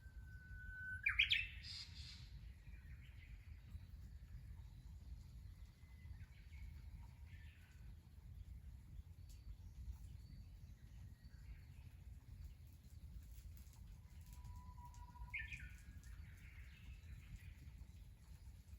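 A bird singing outdoors: a held whistle leading into a loud, quick phrase about a second in, softer calls in the middle, and another phrase near the end, over a steady low rumble.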